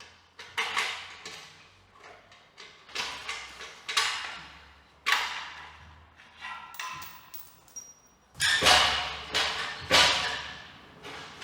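Metal knocks and clanks from an Aprilia Tuono 660's exhaust being worked loose from its header pipes: scattered single hits with a short ring, then a busier, louder clatter in the last three seconds.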